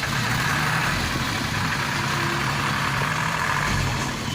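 Truck engine running steadily with a low, even note, under a steady hiss.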